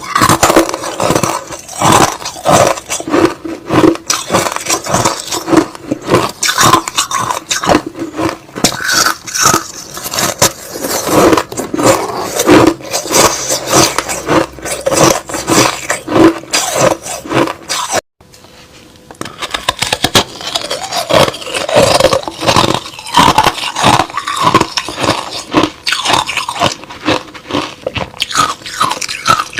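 A person chewing crushed ice and slush close to the microphone, a dense run of crunches and grinding scrapes. The chewing breaks off briefly about eighteen seconds in, then starts again.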